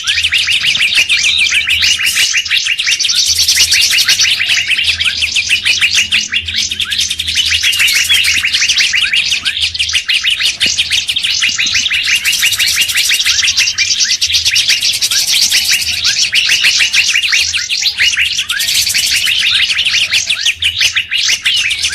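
Songbird lure recording: a dense, continuous stream of rapid chirps and twitters from several birds, swelling and easing in waves.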